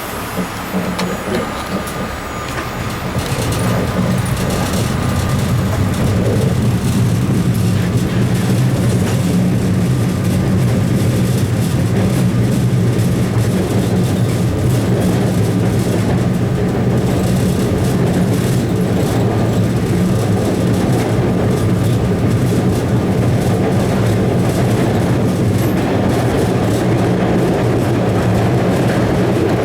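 Red Line subway car heard from inside while running on the rails: a steady low hum and rumble from motors and wheels, which gets louder about three seconds in and then holds steady.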